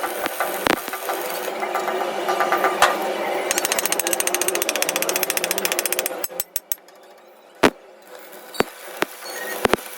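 Electric arc welding on an iron plate: a steady crackle with a fast rattling pulse in the middle, cutting off about six seconds in. A few separate sharp knocks follow.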